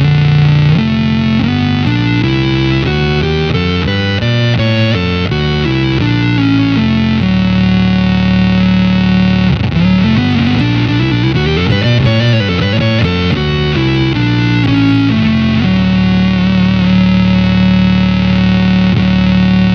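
Electric guitar played through an EarthQuaker Devices Data Corrupter PLL synth pedal, its harmonizer interval set to a major third, with the square-wave and subharmonic oscillator voices in the mix. It plays two runs of stepped notes that climb and fall, then holds one long note near the end.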